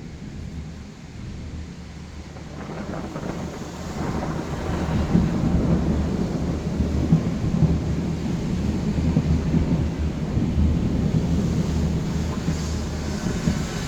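Rolling thunder with rain: a low rumble that swells about three seconds in and keeps rolling.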